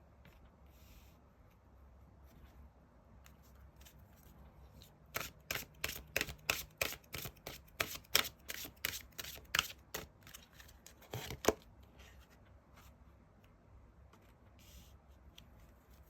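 Tarot cards being shuffled and handled by hand: a run of quick, sharp card snaps about two a second through the middle, ending with a louder one, with soft rustling of the cards before and after.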